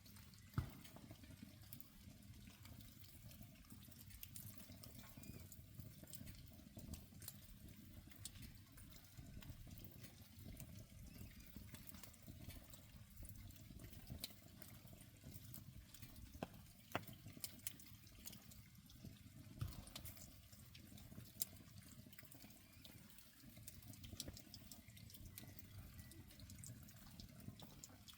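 Faint campfire of soaking-wet wood, with scattered sharp pops over a low steady rush and a watery hiss.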